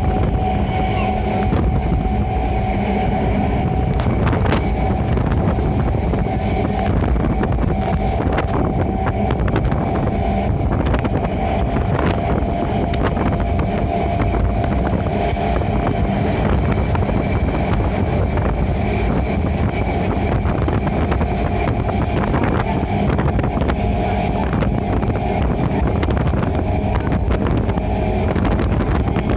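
Passenger train running at speed, heard from inside a coach by an open window: a steady, loud rumble of wheels on the track with wind buffeting the microphone. Occasional irregular clicks and a faint steady tone ride over it.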